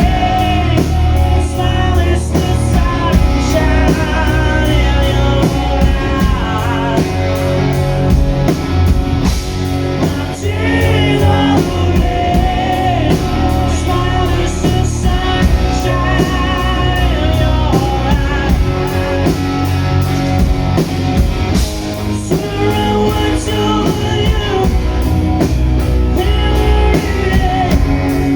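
Live rock band playing a song: drum kit, bass and electric guitar, loud and continuous.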